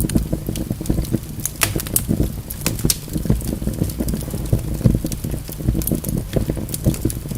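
Wood fire burning in a fireplace: a steady low rumble of flames with frequent irregular crackles and pops from the logs, a few sharper pops standing out.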